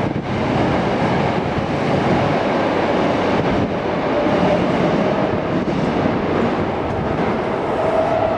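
Karasuma Line subway train running through the station, a steady rumble with a faint whine that comes and goes.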